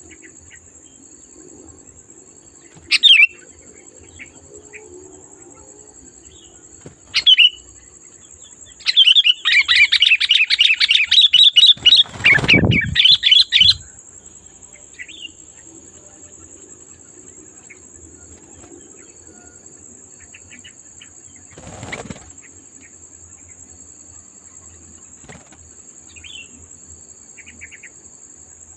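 Sooty-headed bulbul calling: short loud notes about three and seven seconds in, then a fast run of loud chattering notes from about nine to fourteen seconds in, with a low rumble under it near the middle of that run. A steady high-pitched drone runs underneath.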